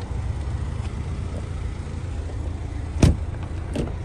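Steady low rumble of a car idling. One sharp knock comes about three seconds in, followed by two lighter clicks.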